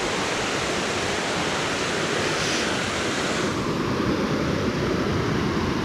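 Steady rushing of a creek or waterfall, an even hiss of running water; its upper edge dulls slightly about three and a half seconds in.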